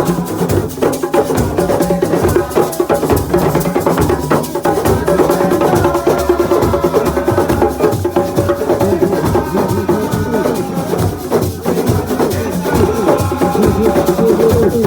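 A group singing together to live drum and percussion accompaniment, the voices and a steady stream of drum strikes running continuously.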